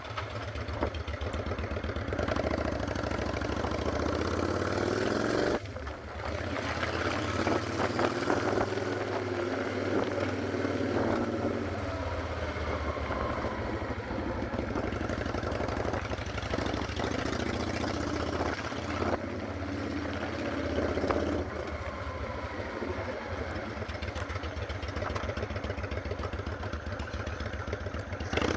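Honda Shadow 600 V-twin motorcycle engine running under way, with a steady pulsing exhaust. The note drops briefly about five and a half seconds in, then builds again.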